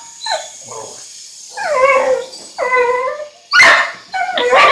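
Dog whining and yelping excitedly in a string of short, wavering, high calls, with a louder, harsher bark-like burst about three and a half seconds in.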